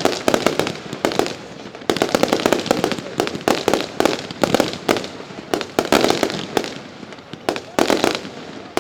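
Professional display fireworks going off in a rapid barrage: many sharp bangs in tight clusters, about one cluster every half second to a second, with crackling between them.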